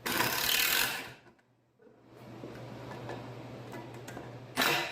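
Power drill driving a 2-inch square-headed sheetrock screw into cherry wood, loud, in a burst of about a second, with another short burst near the end.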